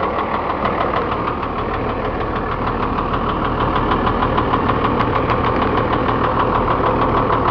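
Cummins diesel engine idling steadily with a rapid knocking clatter. The owner suspects the noise has to do with low oil pressure once the engine is warm.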